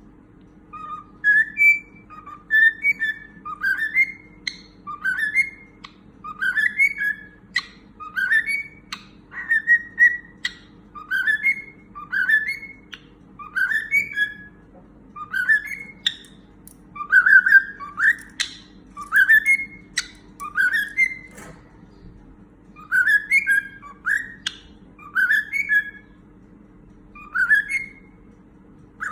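Cockatiel whistling its song: a long run of short rising whistled notes, about one phrase a second, with brief pauses.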